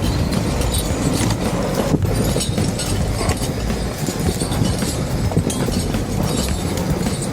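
Log skidder's diesel engine running steadily under a heavy log load, with clanking and knocking from the machine. One sharper knock comes about two seconds in.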